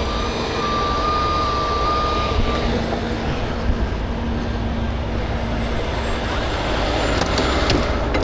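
Heavy truck engine idling with a steady low rumble, while an alarm sounds in long, even beeps for the first couple of seconds, then stops. A few sharp clicks come near the end.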